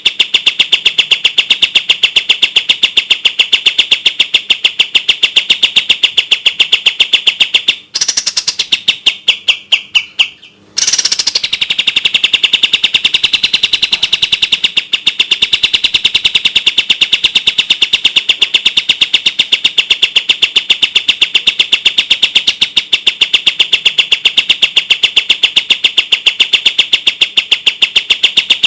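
Kapas tembak songbird giving its rapid 'tembak' volley of clear, high, evenly repeated notes, about six a second. About eight seconds in the volley thins and stops for a short pause, then resumes at the same speed.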